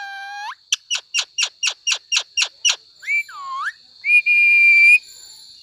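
Pet parrot whistling: a rising call, then a quick string of about nine short chirps, a dipping swooping call, and a steady high whistle held for about a second near the end.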